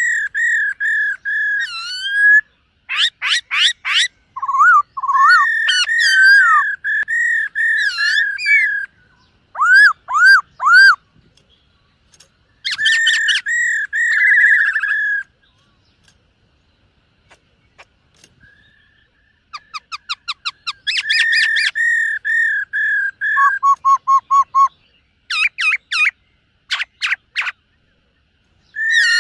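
Black-throated laughingthrush singing loud whistled phrases: wavering held whistles, runs of fast repeated notes and quick sweeping notes. The song breaks off for a few seconds about halfway through and again briefly near the end.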